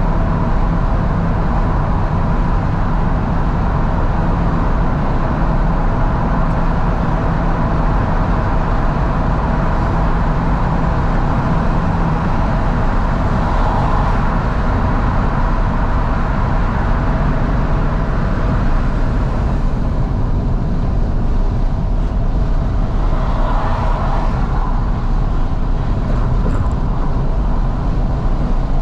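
Fiat 500S car driving with the windows fully down: its engine running steadily under loud wind and road noise, heard from inside the cabin.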